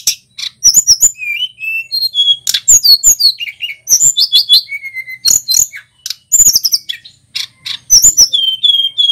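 Male tledekan gunung singing a fast, varied song of high chirps, sharp clicking notes and short whistled slurs, delivered in quick bursts with brief pauses.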